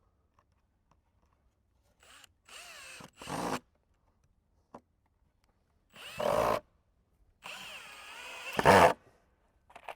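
Power drill driving screws into wooden cover boards in short runs, three times, the motor whine shifting in pitch as each screw bites, with the last run near the end the loudest.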